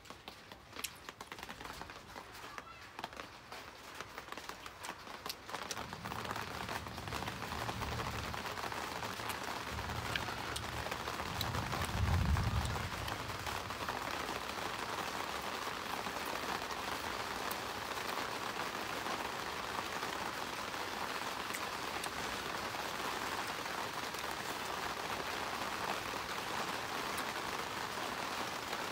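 Rain falling steadily, an even hiss that builds over the first several seconds and then holds. A low rumble swells and fades about a third of the way in, and a few small clicks of eating come in the first few seconds.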